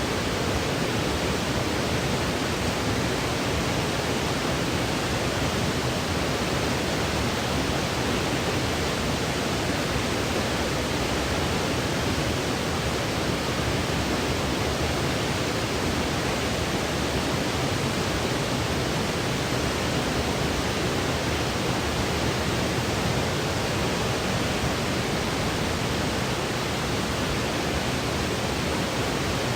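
Synthetic white noise played as a baby sleep aid: a steady, even hiss that never changes in level or character.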